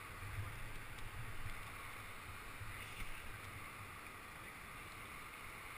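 Kicking Horse River water rushing steadily around a raft, with uneven low rumbling underneath.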